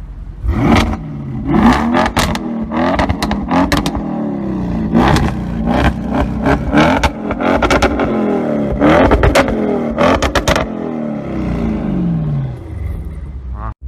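Audi RS6 engine and Akrapovic exhaust revving again and again, the engine note rising and falling many times, with short sharp cracks among the revs.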